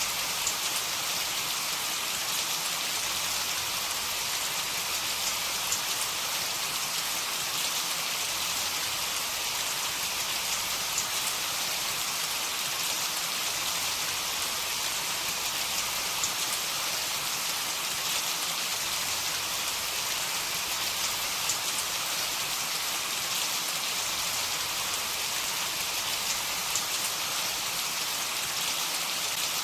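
Steady heavy rain falling, an even bright hiss scattered with small sharp drop ticks.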